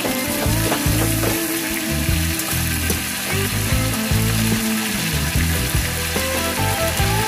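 Chicken wings sizzling as they sauté in oil in a wok, with a metal spatula scraping and knocking against the pan a few times in the first second or so.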